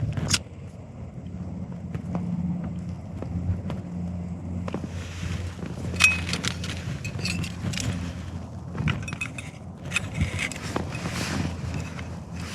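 Strong wind buffeting a tent, a steady low rumble, with clicks and rustling of gear being handled inside from about five seconds on.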